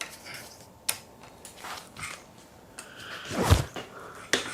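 Scattered light clicks and knocks from hands working the road bike's rim brake and cable, with a louder, deeper thud about three and a half seconds in.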